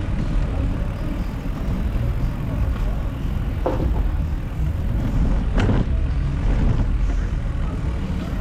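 City street traffic heard from a bicycle: vehicle engines and tyres making a steady rumble, with a couple of short, sharp sounds about three and a half and five and a half seconds in.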